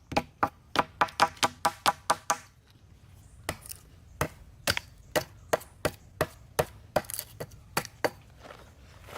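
A tool striking wood in repeated knocks: a quick, even run of ringing blows, about four a second, that stops about two and a half seconds in, followed by slower, irregular single knocks.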